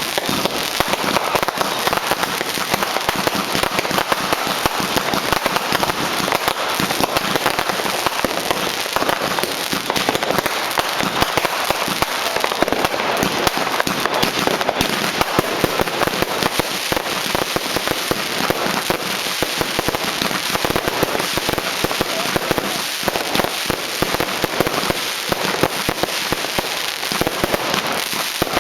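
Fireworks and firecrackers banging and crackling in a dense, continuous barrage, many overlapping bangs a second without a pause.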